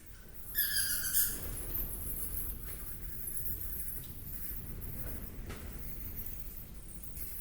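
A short, high, squeaky animal call with several stacked tones about half a second in, over a steady low rumble and a faint high hiss, with a few faint clicks afterwards.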